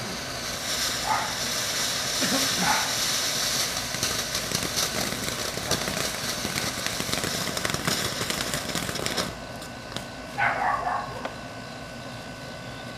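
Ground fountain firework spraying with a steady hiss and dense crackling, which cuts off abruptly about nine seconds in. A short shout follows about a second later.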